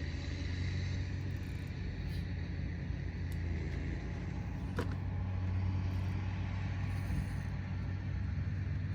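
A steady low rumble with faint hiss above it, and one short click about five seconds in.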